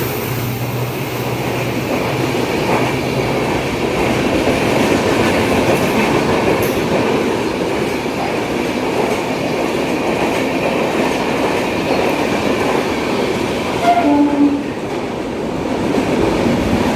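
A train running past on the tracks: a steady rumble of wheels over rails, with a brief horn sound about fourteen seconds in.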